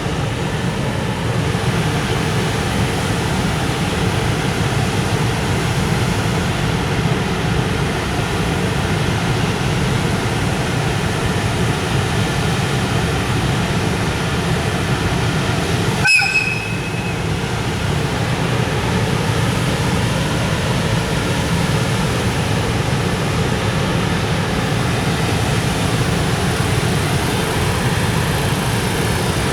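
Freight train of container wagons rolling past at low speed while departing, with a steady rumble of wheels on rail. About halfway through there is one brief, high-pitched squeal.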